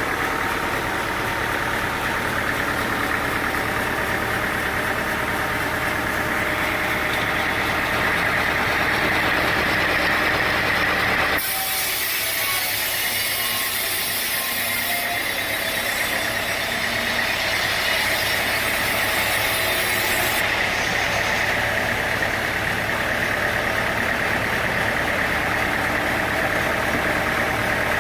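Sawmill machinery running steadily, with a motor-like drone. About eleven seconds in the sound changes abruptly, losing its low end and gaining a high hiss; the fuller running sound returns some ten seconds later.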